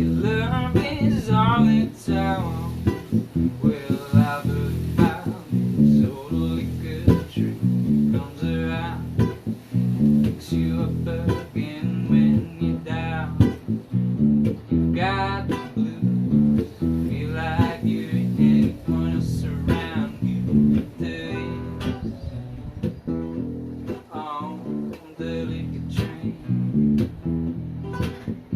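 Guitar music: plucked and strummed acoustic guitar chords in a steady rhythm, with a wavering lead melody coming in and out above them.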